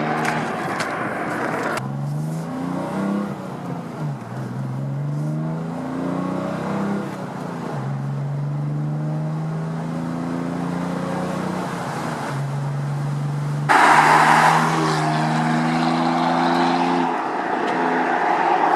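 Exhaust of a 2019 BMW M4 Competition's twin-turbo inline-six with the secondary catalytic converter core removed, the engine note rising and falling again and again as the car is driven. About fourteen seconds in, it suddenly gets louder and rougher.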